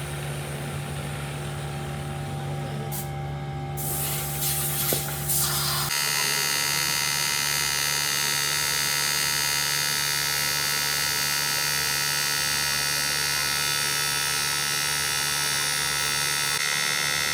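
A machine running steadily with a hum, changing about six seconds in to a steady buzzing whine with higher tones.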